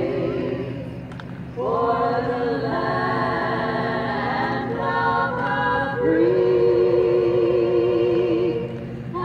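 A choir singing unaccompanied in long held chords, over a steady low rumble. The voices fade out about a second in and come back strongly about half a second later.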